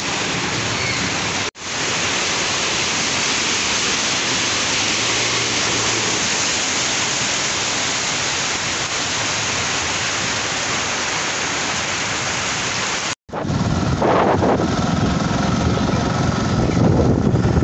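Torrential rain falling steadily on a flooded street, heard as an even hiss, with a brief break about a second and a half in. About thirteen seconds in it cuts off abruptly and gives way to wind buffeting the microphone over a low rumble.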